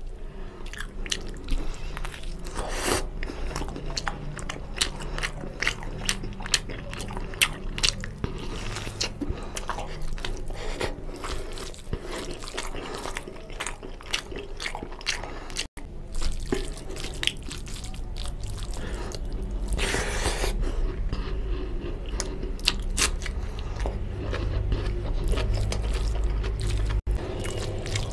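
Close-miked chewing of mutton leg curry with rice: a dense run of wet mouth smacks and clicks.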